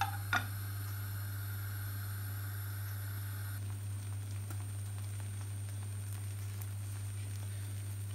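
Masala omelette batter frying in a pan, sizzling faintly with scattered small crackles over a steady low hum. Two sharp clicks right at the start, as the spatula leaves the pan.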